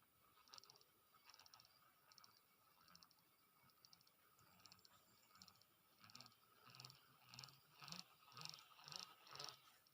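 Near silence with faint insects chirping outdoors: short, rapidly pulsed high chirps repeating every half second or so over a thin steady drone, growing louder and fuller in the last few seconds.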